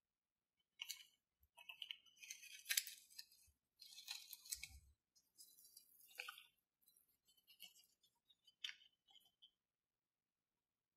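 Faint, scattered sticky crackles and clicks of slime being handled, in irregular clusters.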